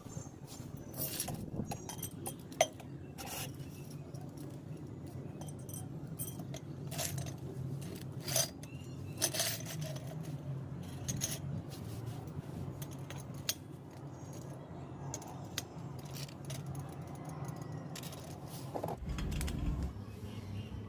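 Irregular light clinks and rattles of small hard objects, such as metal parts or tools being handled, over a steady low hum.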